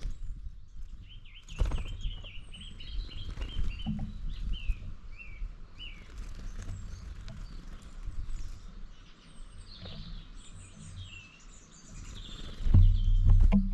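Wild birds chirping, with runs of short high notes, over low knocks and rumbling. A louder low rumble lasts about a second near the end.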